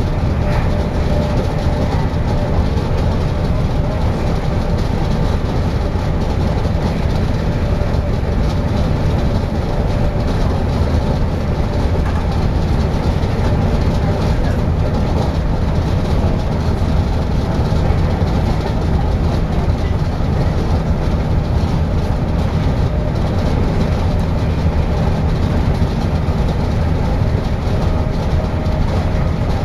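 Passenger train running at speed, heard from inside the carriage: a steady low rumble of wheels on track and running gear.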